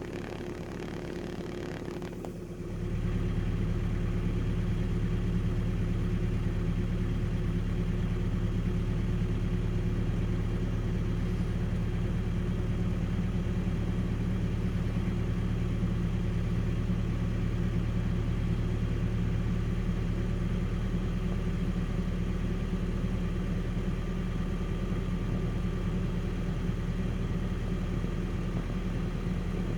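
Car engine idling steadily after a cold start, an even low hum. About two and a half seconds in it becomes louder and then holds steady.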